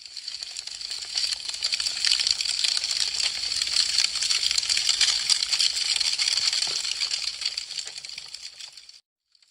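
Wood fire crackling, a dense run of small snaps and pops. It swells in from silence at the start and fades out again near the end.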